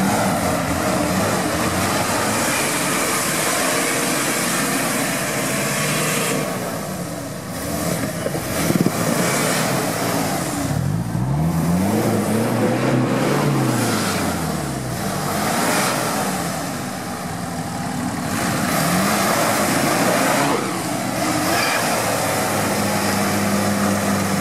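Nissan Patrol off-road engine revving hard under load as the 4x4 pushes through deep mud. The pitch rises and falls several times, with the clearest sweeps past the middle, and then settles into a steadier run near the end.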